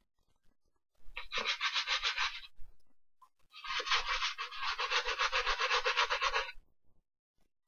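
A brush scrubbing a sneaker in rapid back-and-forth strokes, in two bouts: one of about a second and a half, then a short pause, then one of about three seconds.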